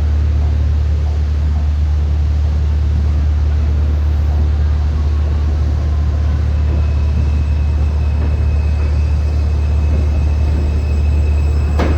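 R160 subway train running, a loud steady low rumble. A faint high steady tone joins about halfway through, and there is a sharp click near the end.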